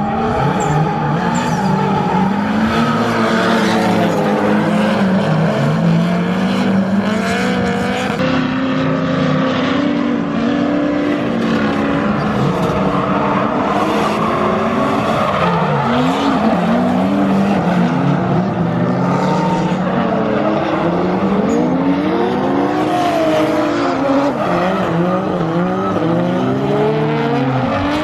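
A train of drift cars sliding in tandem: several engines revving up and down at once, their pitches overlapping and crossing, over a steady haze of tyre squeal.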